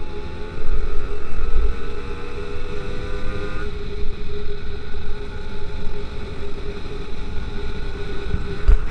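BT100 two-stroke motorized-bicycle engine running steadily while riding, with wind buffeting the microphone. About three and a half seconds in, the engine's note changes.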